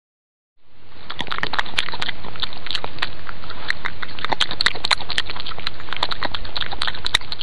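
European badger snuffling and foraging at close range: many quick, sharp clicks and crackles over a steady hiss and low hum, starting about half a second in.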